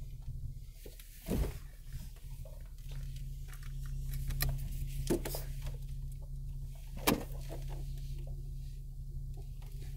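Off-road 4x4's engine running with a low, steady drone, heard from inside the cab, with a few sharp knocks and thumps, the loudest about seven seconds in.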